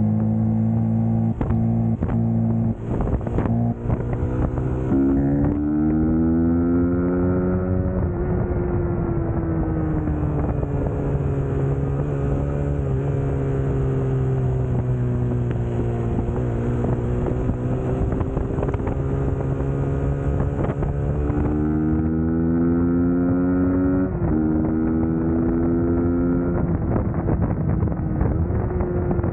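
Suzuki GSX-S150's single-cylinder engine pulling on the road, its pitch climbing as it accelerates, with a sudden drop at an upshift about three-quarters of the way through before it climbs again. Wind buffets the microphone.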